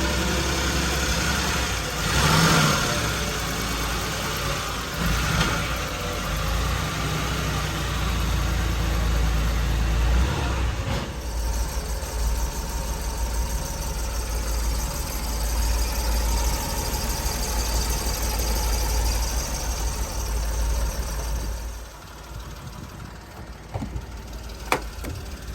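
Mitsubishi Minicab kei truck's small engine running steadily with a low hum; near the end the hum drops away and a single sharp click follows.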